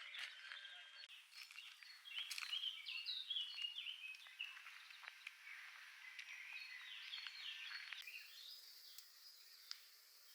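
Songbirds singing outdoors: many short, overlapping chirps and quick whistled notes, loudest a few seconds in, over a light background hiss.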